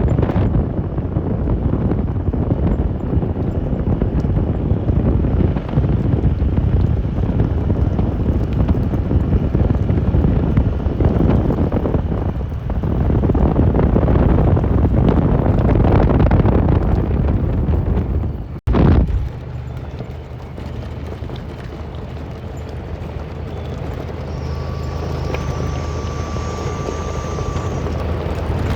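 Side-by-side UTV being driven, its engine noise mixed with heavy wind buffeting on the helmet-mounted action camera's microphone. After a sudden cut about two-thirds of the way in, the engine runs more steadily and quietly with a low even hum.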